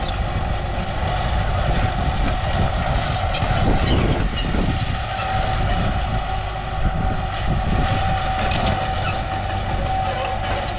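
Heavy diesel machinery running under load: a steady engine rumble with a constant high whine over it, swelling briefly midway.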